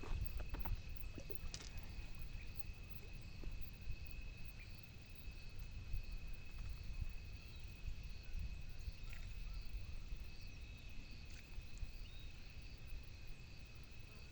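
Outdoor ambience by the water: a low rumble of wind on the microphone under a steady, thin, high insect drone, with a few faint clicks.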